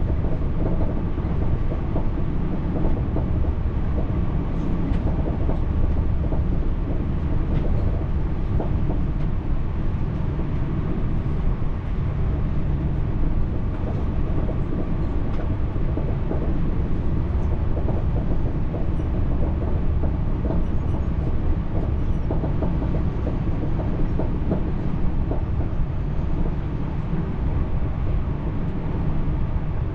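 TER regional train running steadily, a continuous low rumble of wheels on rail with faint scattered clicks.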